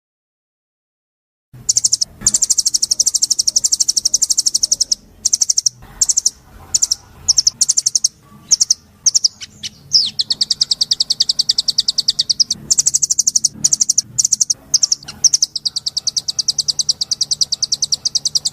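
Songbird singing a rapid, high-pitched trill of chirps repeated many times a second, in long runs broken by short pauses. It starts suddenly about a second and a half in, after silence.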